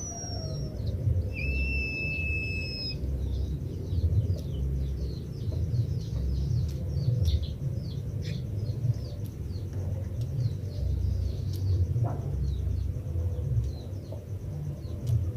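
White-headed munia giving a long, flat whistle about a second in, held for about a second and a half, then a long run of quick, high, falling chirps, a couple each second. A steady low rumble runs underneath.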